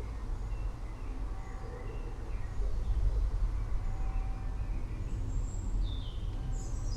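Low, steady rumble of distant thunder that swells about three seconds in, with birds chirping briefly over it and a couple of falling chirps near the end.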